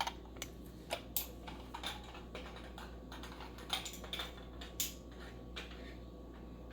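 Espresso machine parts being handled: a series of light, irregular clicks and taps as the single- and double-shot filter baskets are swapped, over a faint steady hum.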